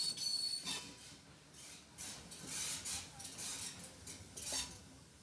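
Old heritage train rolling slowly, heard from the carriage: irregular bursts of hiss with metallic clinking and rattling over a low rumble.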